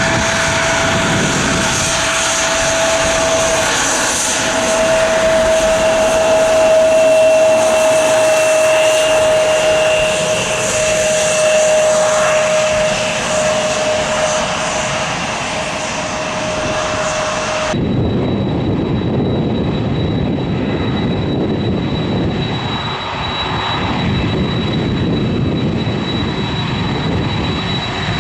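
Airliner jet engines running, a steady whine slowly falling in pitch. About two-thirds of the way in it cuts abruptly to another aircraft, a deeper rumble with a thin high whine over it.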